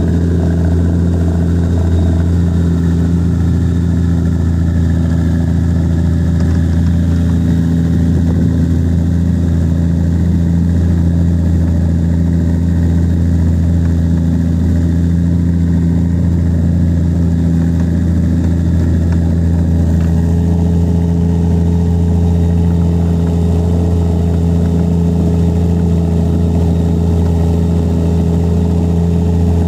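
An engine running steadily at constant speed: a low, even drone that does not change in pitch.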